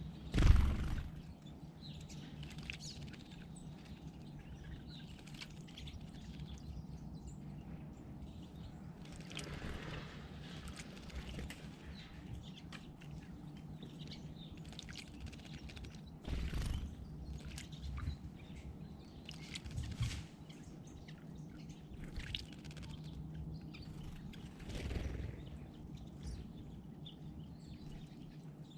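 Outdoor ambience with scattered faint bird chirps over a steady background hiss. A brief loud thump comes about half a second in, and a few softer rumbles follow later.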